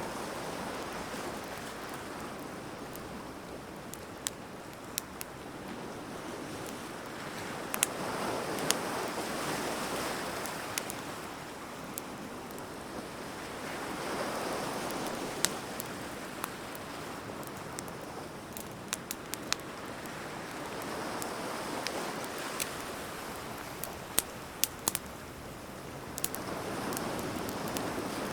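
Wood fire crackling with scattered sharp pops, over surf washing in and out in slow swells every six or seven seconds.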